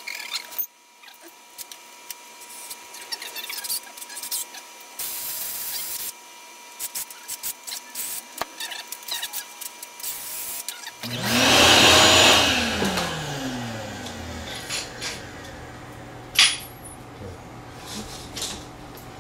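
Metal clicks and tool handling, then about eleven seconds in a loud burst of a power drill boring into a metal engine mounting hole, its motor winding down after the bit is let off. Light clicks and taps follow.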